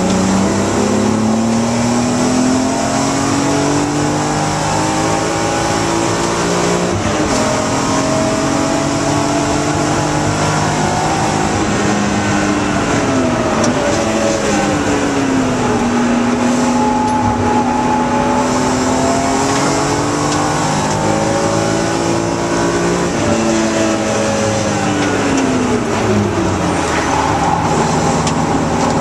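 BMW E36 M3 Evo's straight-six engine, heard from inside the cabin, driven hard on track. The revs climb repeatedly through the gears and fall away on braking, over loud road and wind noise.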